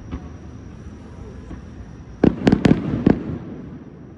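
Fireworks going off: a quick run of about five sharp bangs a little over two seconds in, the first one loudest.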